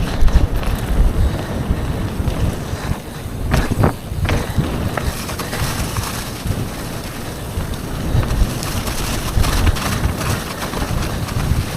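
Wind buffeting the microphone over a rough, bumpy rolling rumble, with a few sharp clacks about four seconds in.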